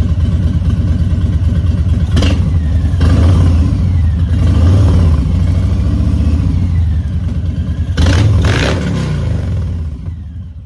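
Harley-Davidson Street Bob's V-twin engine running warmed up on a lift, with two sharp clacks about two seconds and eight seconds in. The engine dies away near the end as it is switched off.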